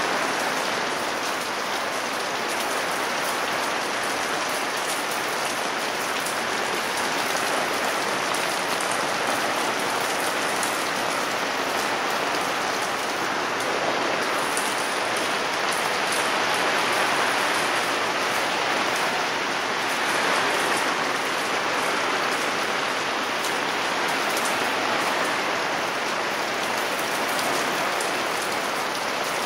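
Heavy downpour: a steady hiss of hard rain on the gazebo's fabric canopy and the yard around it.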